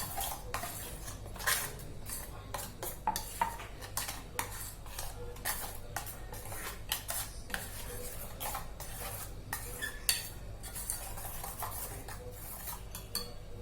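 A spoon stirring and scraping in a metal container, with irregular clinks as spices, mustard oil and green chilies are mixed together.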